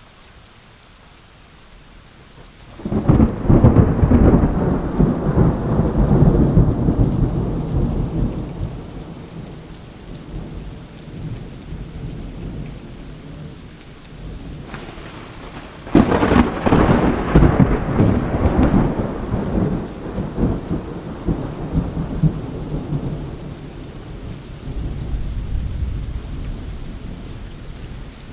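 Thunderstorm: steady rain with two long rolls of thunder, the first breaking about three seconds in and the second a little past halfway, each starting with a sharp crack and rumbling away over several seconds.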